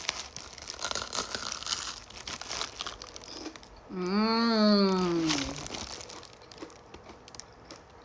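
Crisp batter of deep-fried banana (chuối chiên) crackling and crunching as it is bitten and chewed, with a long closed-mouth "mmm" of enjoyment about four seconds in, rising and then falling in pitch. Fainter chewing crackles follow.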